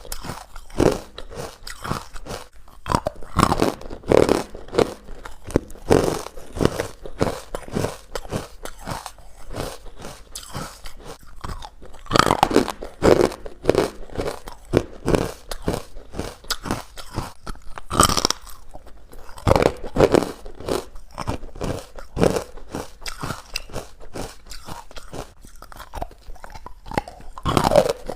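Close-up chewing of chalky, crunchy white ice bites: a steady, irregular run of sharp crunches as the ice is bitten and ground between the teeth.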